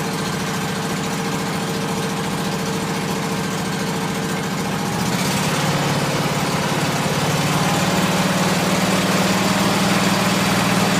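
Cub Cadet Series 2000 lawn tractor engine running just after a cold start from months of sitting. It runs steadily, then about five seconds in it speeds up and gets louder and holds the higher speed.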